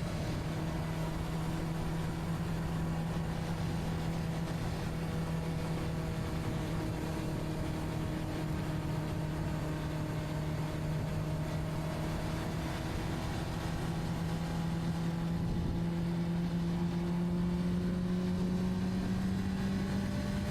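Honda CBR600RR's inline-four engine running at a steady cruise, its pitch easing slightly and then climbing over the last few seconds as the revs rise.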